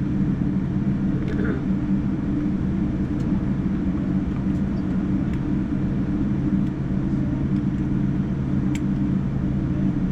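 Boeing 787-9 jet engine noise heard from inside the cabin: a steady drone with a low hum, and a couple of faint ticks, one about a second in and one near the end.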